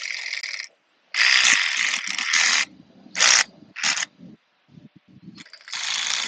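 Ratchet wrench clicking in quick runs as it is swung back and forth on a bolt, about five runs of varying length, the longest over a second.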